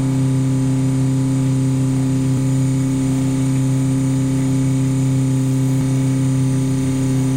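A sailboat's inboard diesel engine running steadily at cruising revs under way, a constant hum with an unchanging pitch.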